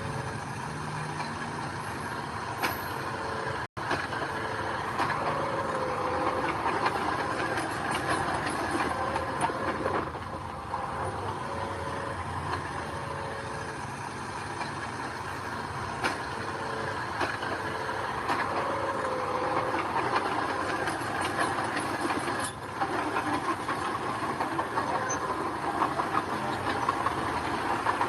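Diesel construction machinery running steadily under load, with repeated metallic clanks and gravel rattles; the sound cuts out for an instant about four seconds in.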